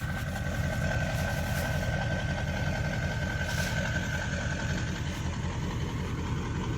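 A 1999–2003 Ford 7.3 liter Power Stroke turbo-diesel V8 idling steadily, with a thin high-pitched whine held over the engine's low clatter.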